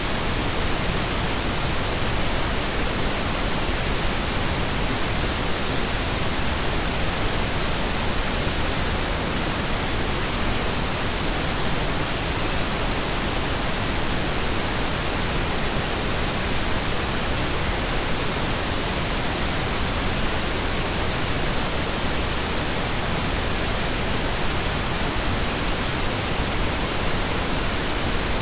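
Steady synthetic pink noise: an even, unchanging hiss spread across the whole range of pitch, played as a sleep aid.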